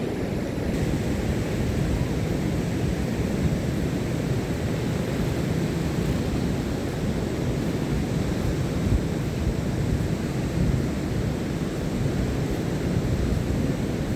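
Ocean surf breaking on a beach: a steady, low rushing noise of waves with no single distinct crash.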